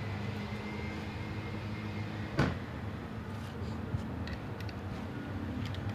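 Engine parts and tools being handled on a workbench: one sharp knock about two and a half seconds in, then a few light clicks near the end, over a steady low hum.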